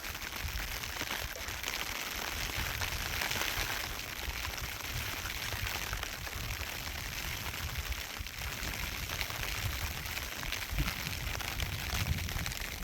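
Steady rushing hiss with an uneven low rumble, typical of storm wind blowing against the microphone.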